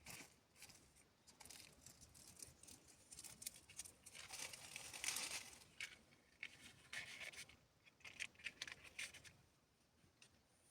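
Faint, irregular scratching and rubbing, with small clicks scattered through it, busier around the middle.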